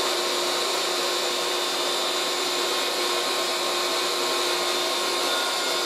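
1980s Moulinex 237/320 handheld vacuum cleaner running steadily: a constant motor whine over rushing air. Its upholstery tool is obstructed and the suction is weak.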